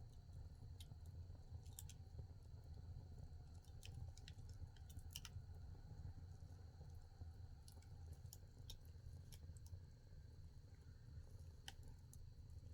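Firewood burning in an agungi, a traditional Korean wood-fired firebox: faint, irregular sharp crackles and pops over a low steady rumble of the fire.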